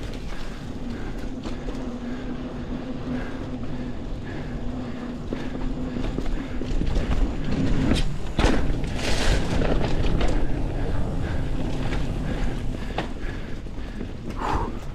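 Mountain bike rolling over a dirt singletrack trail: a steady rumble of the tyres with the rattle of the bike and wind on the microphone. A couple of sharp knocks come about eight seconds in as it hits rougher ground, followed by a brief rush.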